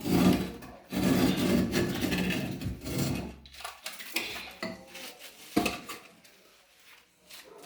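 Hard objects scraping and clattering for a couple of seconds, then scattered knocks and clicks that grow fainter.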